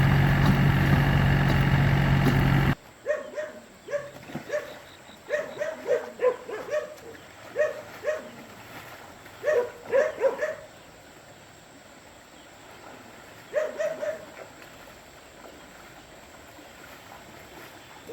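A two-wheel tractor's engine running steadily, cut off abruptly under three seconds in. Then a dog barking in runs of short barks, a pause, and a last few barks.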